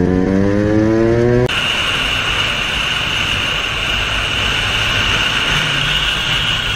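Motorcycle engine accelerating, its pitch climbing steadily, then cut off suddenly about a second and a half in. After that, a steady rush of wind and road noise with a thin high whine.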